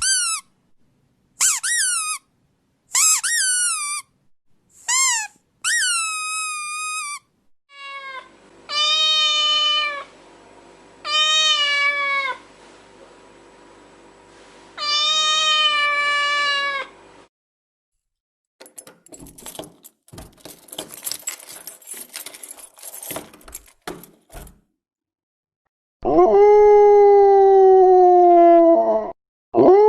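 Cat meowing played as a test sound for dogs: first five short, high meows, then three longer meows. A few seconds of crackly clicking noise follow. About 26 seconds in a long howl starts, falling in pitch, and a second howl begins near the end.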